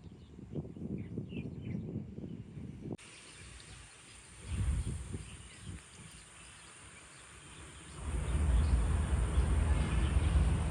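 Outdoor ambient noise: low rumble typical of wind on the microphone, with a few faint bird chirps in the first seconds. The sound changes abruptly about three seconds in, and the rumble grows louder near the end.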